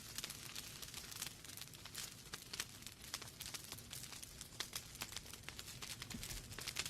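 Wood fire in a fireplace crackling: logs snapping in irregular sharp pops over a low, steady rumble of flame.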